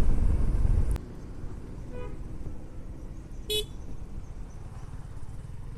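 Loud low rumble of a motorcycle ride drops away about a second in as the bike slows. A faint short horn beep follows about two seconds in, then a brief, louder horn toot at about three and a half seconds, over a low steady running rumble.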